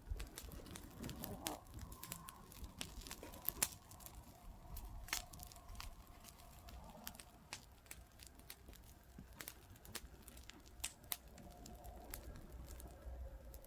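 Wood campfire crackling, with sharp pops and snaps at irregular intervals.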